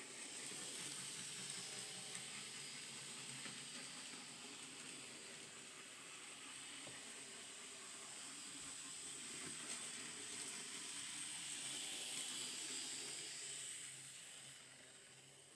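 N gauge model train running along the track: a faint high whir and rail hiss that fades shortly before the end.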